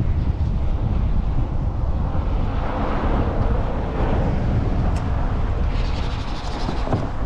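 Wind buffeting the microphone: a steady low rumble, with a fine crackling hiss joining near the end.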